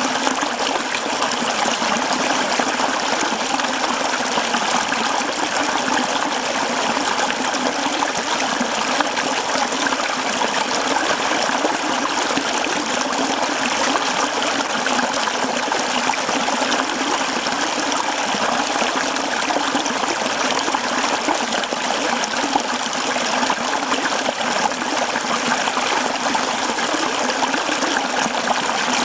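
Mountain stream flowing over rocks: steady, close-up rush and trickle of running water.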